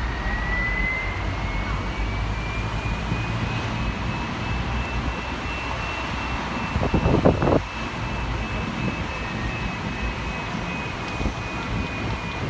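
Steady low rumble of a city bus in traffic, with a thin high whine held throughout that drifts slightly upward. A short, louder, rougher noise comes about seven seconds in.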